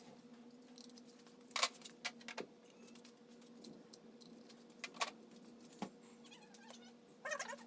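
Scattered sharp clinks and knocks, about four spread through, then a quick run of rattling clicks near the end, like tools and small engine parts being handled. A steady hum runs underneath.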